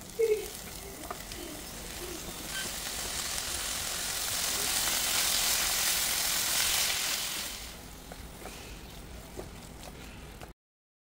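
Chopped spinach sizzling in hot oil in a nonstick pan as it is stirred with a spatula. There is a sharp knock right at the start. The sizzle swells in the middle, dies down, and cuts off abruptly near the end.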